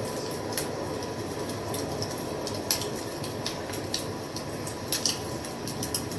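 Fire crackling: a steady low rush with irregular sharp pops and snaps, a louder snap a little under three seconds in and a couple more around five seconds in.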